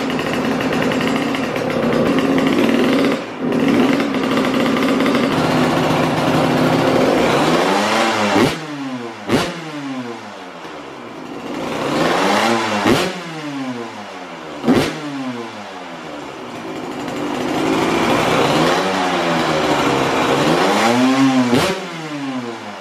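Pit bike engine running through its freshly dented-out exhaust, a test of whether its earlier noise is gone. It runs steadily at first, then is revved up and down several times, with a few sharp cracks as the revs come and go.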